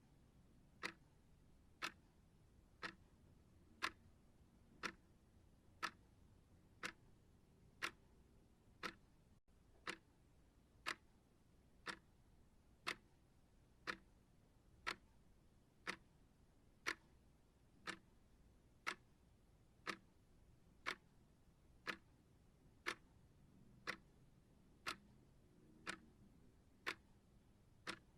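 Steady ticking of a timer, one sharp tick each second.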